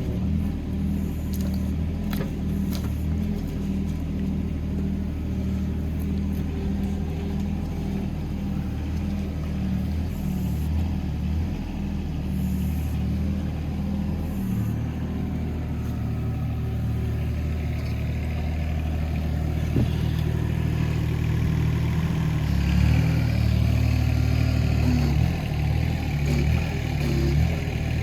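Hitachi ZX18 mini excavator's diesel engine running steadily while it digs, the sound getting louder and brighter in the second half as the load comes on. A few short knocks and clanks sound in the first few seconds.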